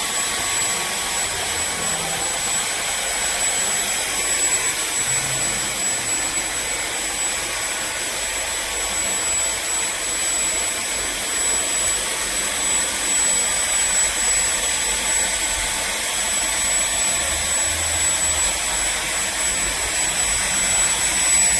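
Fieety cordless stick vacuum running steadily, a constant airy rush with a thin high whine over it.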